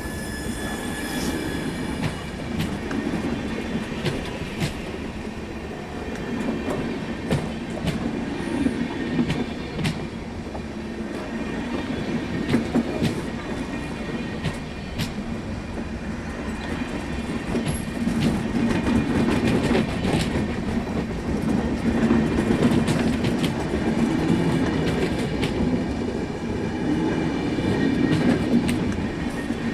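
Passenger express train rolling on steel rails: a steady rumble with the wheels clicking and clattering over rail joints and some wheel squeal. The sound grows louder through the second half.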